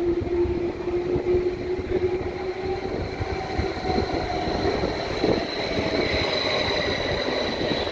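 Electric multiple-unit passenger train pulling into the platform and slowing: a steady rumble of wheels on the rails under the whine of its electric drive, which sinks slightly in pitch. A high whine grows louder in the second half as the train comes alongside.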